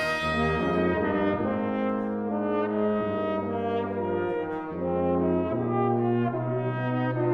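Brass ensemble playing sustained chords, the held notes changing every second or two over a low bass line that shifts to a new note about five and a half seconds in.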